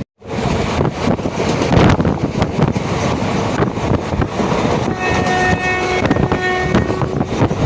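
Moving passenger train: a steady rumble of wheels on the track with wind noise, and a train horn sounding for about two seconds near the end.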